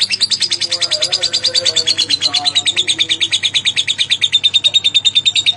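Lovebird giving a long, unbroken string of rapid, shrill chirps, about eight a second, the pitch sinking slightly over the first few seconds and then holding steady.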